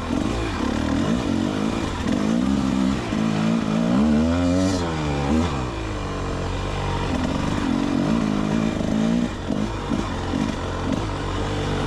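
Rieju MR300 Pro's 300cc two-stroke engine under load on a dirt bike, revving up and down over and over as the throttle is worked, with a longer rise and fall in revs about four seconds in.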